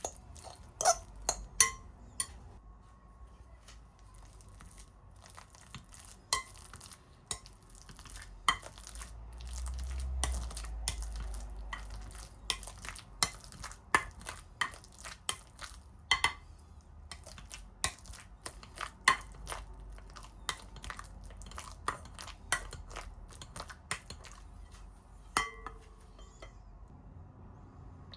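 Kitchen utensils knocking and clinking against bowls and dishes, a series of irregular sharp taps, some with a short ring.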